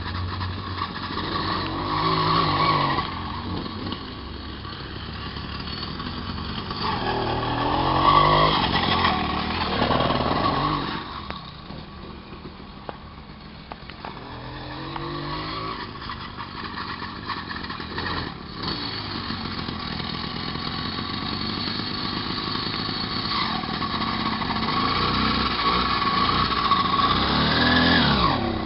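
Small 66cc moped engine revving up and down as the bike is ridden, loudest about eight to ten seconds in, easing off for a few seconds, then building again toward the end.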